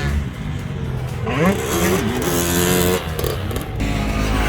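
Motocross dirt bike engines revving on the track, their pitch rising and falling as the riders work the throttle, with a sharp rise about a second and a half in.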